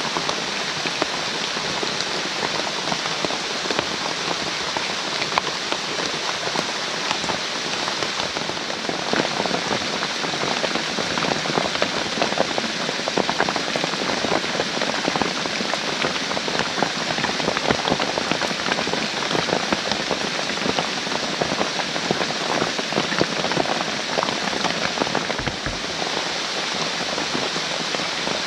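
Heavy rain falling steadily, a dense hiss of countless fine drops.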